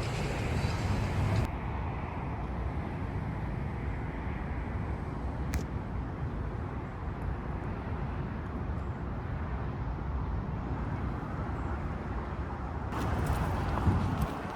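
Steady low outdoor city rumble, like distant traffic, with no distinct events. The character of the noise changes abruptly about a second and a half in and again near the end.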